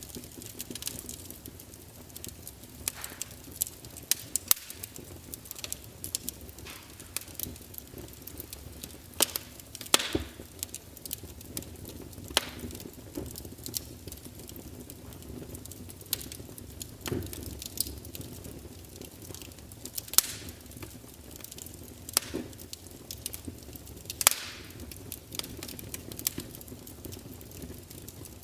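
Burning wood crackling, with irregular sharp pops and snaps every second or so over a faint steady low rustle of the flames; a few snaps stand out louder, the loudest about ten and twenty seconds in.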